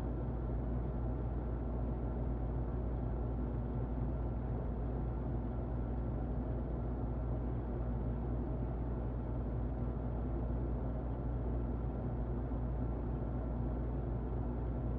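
Muffled electric fan running steadily: an even, low rushing noise with a faint steady whine above it.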